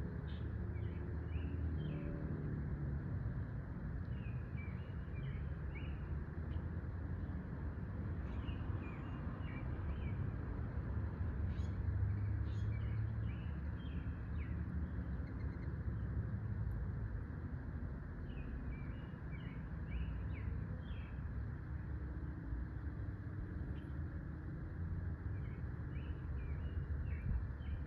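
Small birds chirping in scattered bursts of short, high chirps over a steady low outdoor rumble.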